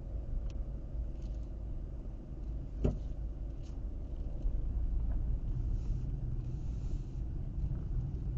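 Car driving at steady speed, a low road and engine rumble as picked up by the dashcam. One sharp knock about three seconds in, with a few fainter ticks around it.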